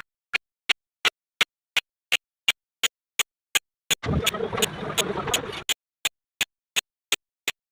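Evenly spaced sharp ticks, about three a second, like a metronome or clock beat. A harsh burst of noise lasting under two seconds breaks in about four seconds in.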